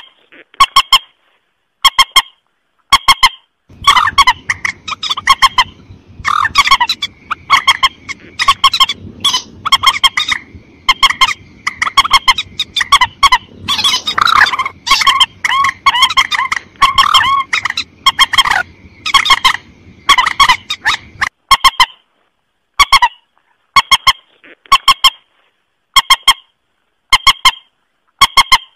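Recorded mandar calls (a rail-family waterbird) played as a hunting lure: short honking notes repeated about once a second. For much of the middle they run into a dense, overlapping series of calls over a low hiss, then go back to spaced single notes.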